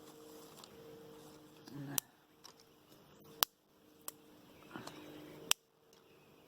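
Small dry sticks being snapped by hand: four sharp cracks spread over a few seconds.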